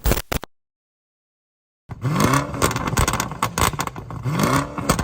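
2008 Hummer's exhaust with the muffler deleted, revved twice in quick blips with a loud, crackly note. A short clipped burst and a second or so of dead silence come before it.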